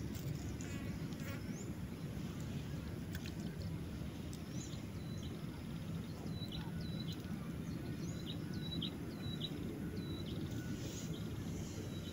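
Birds calling with repeated short, high chirps, most of them between about six and ten seconds in, over a steady low rumble of outdoor background noise.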